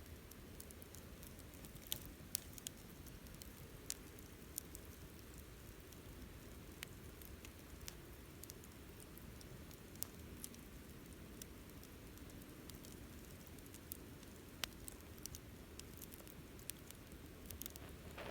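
Wood campfire burning and crackling faintly: scattered, irregular sharp pops and snaps over a low steady rumble.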